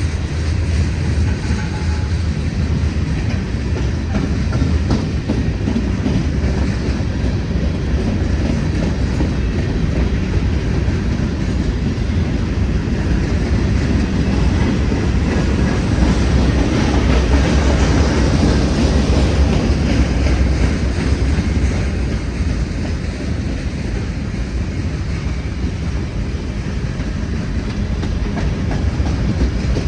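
Freight train rolling past, its cars' wheels clacking over the rail joints with a steady heavy rumble that swells loudest a little past the middle.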